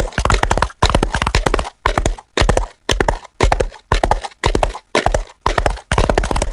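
Horse's hooves clip-clopping on a hard road as it pulls a delman, a horse-drawn cart, in a steady rhythm of click clusters about twice a second.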